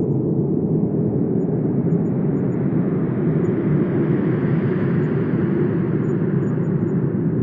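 Wind blowing steadily with a low rush, swelling into a stronger gust about halfway through and easing off near the end.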